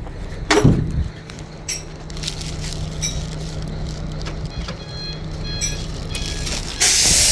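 Truck being locked with its remote key: a steady low hum with a few scattered clicks, then a sudden loud hiss starting near the end.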